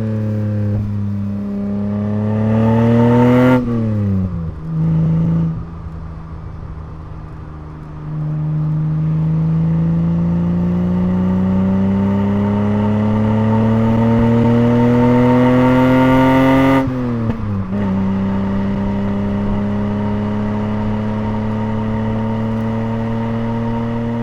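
1989 BMW 325is's rebuilt M20 inline-six engine pulling under acceleration, its pitch rising. The pitch drops sharply at an upshift about 3.5 s in, climbs slowly again, and drops at a second upshift about 17 s in. It then settles to a steady cruise.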